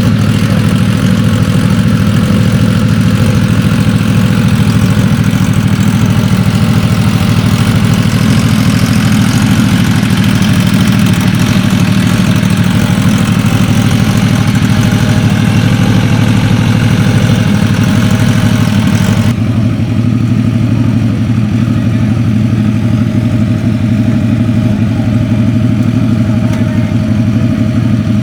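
A vehicle engine idling loudly and steadily at close range, a deep even rumble that starts abruptly. About two-thirds of the way through, the high hissy part of the sound drops away sharply while the low engine note carries on.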